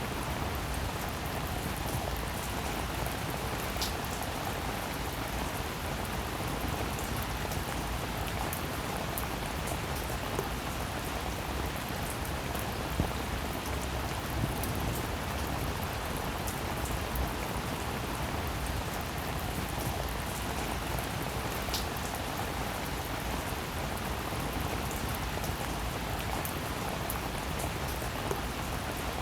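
Steady rain falling, with a few individual drops ticking sharply, one about four seconds in and another a little past twenty seconds.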